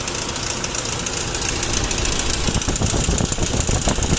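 Toyota 1GD-FTV 2.8 L four-cylinder turbodiesel running with a rough, rapid rattle from the front timing-chain area, a little louder in the second half. The noise is the sign of a slack, stretched timing chain, a common fault on this engine.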